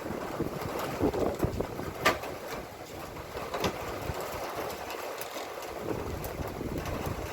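Strong wind gusting over a phone's microphone in rain, an uneven low buffeting over a steady rushing hiss. A few sharp ticks cut through, the loudest about two seconds in.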